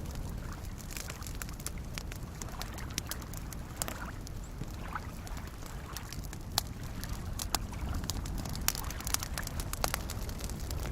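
Campfire crackling with scattered sharp pops, more frequent in the second half, over soft lake waves lapping as a steady low wash.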